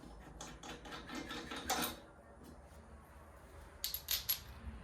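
Light metallic clicking as a mower blade bolt is unscrewed with a socket wrench, a string of irregular clicks at first, then a few sharper metal clinks near the end as the bolt and hardware come loose.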